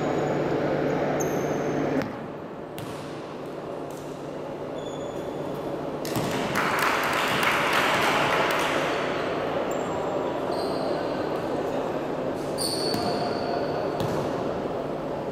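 Basketball game in a gym: ball bouncing and short high sneaker squeaks on the court under a crowd of voices, with the crowd getting louder about six to nine seconds in.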